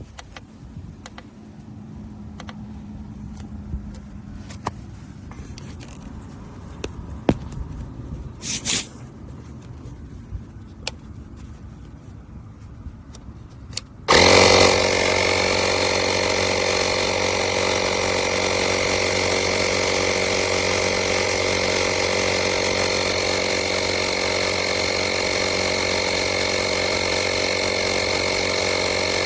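Portable 12 V tire inflator's small piston compressor switching on about halfway through and running steadily, a loud buzzing drone with a steady high whine over it. Before it come light handling clicks and a brief hiss of air.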